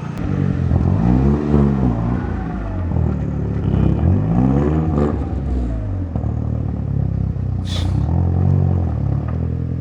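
Audi's engine and freshly welded exhaust as the car is driven off, the engine note climbing and dropping three times over a steady low rumble.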